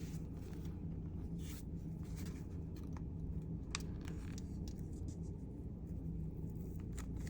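Paper being handled and rubbed down on a journal page: a few short rustles and scrapes over a steady low hum.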